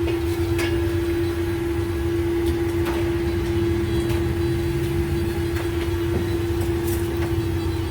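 Food truck kitchen equipment running: a steady mechanical hum with one constant mid tone over a low rumble, and a few light clicks and clatters.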